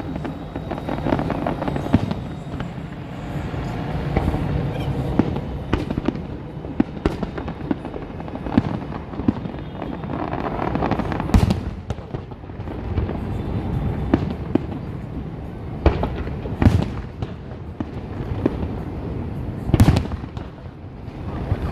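Aerial fireworks bursting and crackling in a continuous barrage, with several louder single booms standing out about eleven, seventeen and twenty seconds in.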